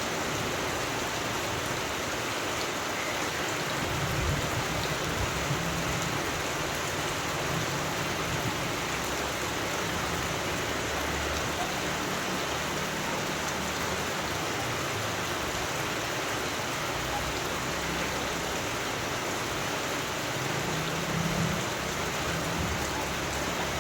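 Steady rain falling: an even, unbroken hiss of drops, with a faint low rumble that comes and goes underneath.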